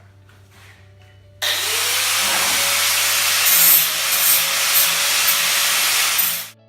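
Electric grinder deburring the cut ends of steel square tubing: a steady grinding rasp that starts abruptly about a second and a half in, with the motor's whine rising as it spins up and then holding steady, and stops abruptly near the end.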